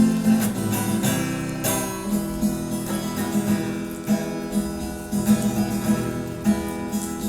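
Acoustic guitar strumming chords in an instrumental break between sung verses of a song.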